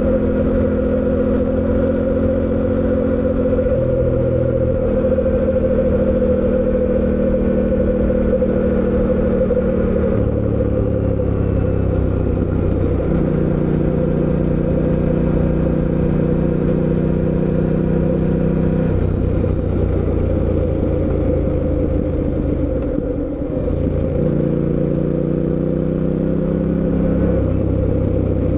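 Fantic Caballero 700 Scrambler's 689 cc parallel-twin engine running under way, heard from onboard. The engine note holds steady for stretches and shifts up or down several times; late on it dips briefly, then climbs again as the bike accelerates.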